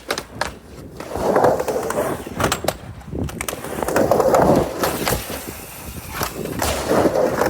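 Skateboard wheels rolling back and forth on a mini ramp, the rumble swelling with each pass, about every two and a half to three seconds. Several sharp clacks of the board and trucks hitting the ramp and coping.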